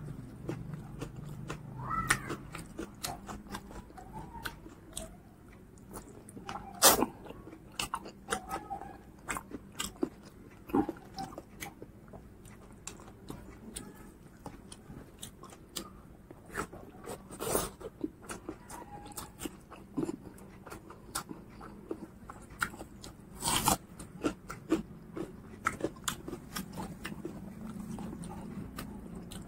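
A man eating pork curry and rice with his hand: chewing and mouth clicks, with a few sharper, louder clicks.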